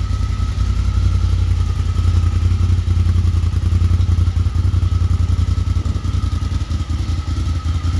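2023 Honda Talon 1000R's parallel-twin engine idling steadily through an MBRP slip-on exhaust, a deep even exhaust pulse with a faint steady whine above it.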